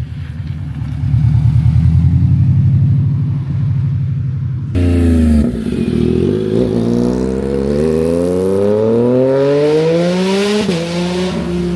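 A car engine rumbling low and steady, then about five seconds in a vehicle accelerating hard, its engine pitch climbing steadily for several seconds before a brief dip near the end, as at a gear change.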